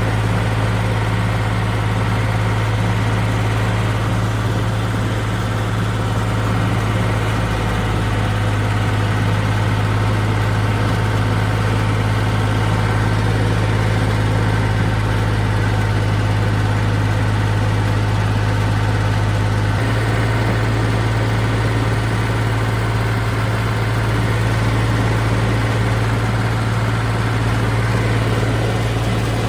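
Air-cooled diesel engine of a 1962 Porsche 329 tractor running steadily, with a deep, even note and a slight change in pitch about 20 seconds in.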